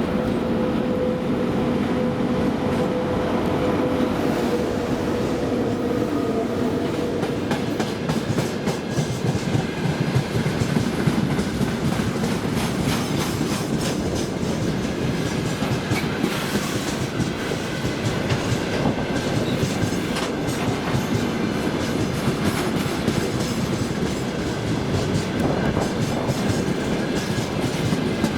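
Freight train wagons rolling past on the track with a steady rumble and a clatter of wheels over the rail joints. A steady hum is heard at first and fades away over the first few seconds.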